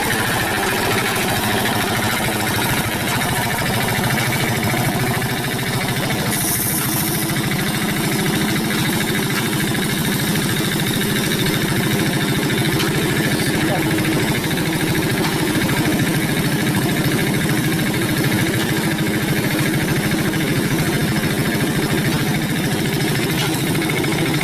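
Hand tractor's single-cylinder diesel engine running steadily with a fast, even beat, with a short high hiss about six to seven seconds in.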